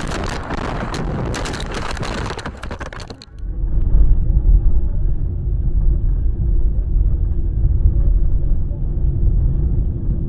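Vehicle noise as heard by a dashcam: a crackling, clicking rush of road noise that changes abruptly about three seconds in to a duller, steady low rumble with a faint hum.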